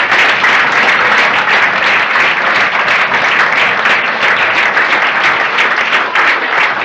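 Audience applauding steadily: many people clapping at once, loud and sustained.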